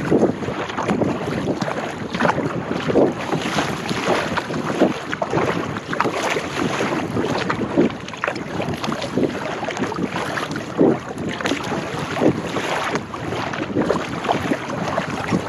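Kayak paddling: water splashing and swirling around the paddle and hull, with wind buffeting the microphone in irregular gusts.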